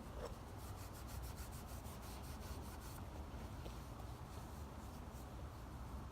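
Steel wool rubbed back and forth over the sickle's wooden handle, smoothing the wood: quick, even scratchy strokes, about five a second, that thin out to a few slower strokes after about three seconds.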